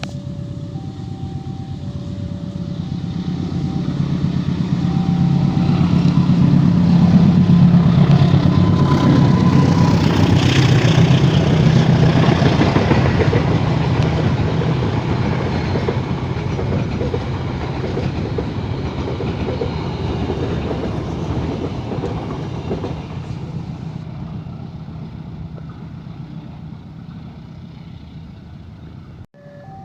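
KAI CC204 diesel-electric locomotive passing with a passenger train: its engine hum and wheel clatter grow louder to a peak about eight to twelve seconds in, then fade away. A level-crossing alarm's alternating two-tone ding-dong sounds over the first few seconds.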